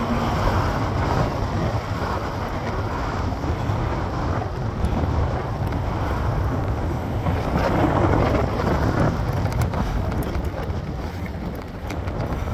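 Wind rushing over the microphone of a moving bicycle, with road traffic noise underneath. The noise swells louder about eight seconds in.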